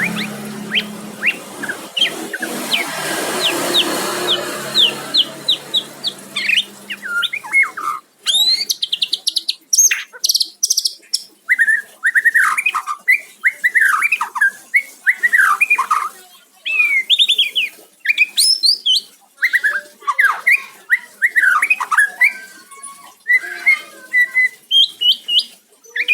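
White-rumped shama (murai batu) singing. It starts with a series of short repeated chirps over background noise and a low hum, then from about eight seconds in sings clear, varied whistled phrases that rise and fall quickly.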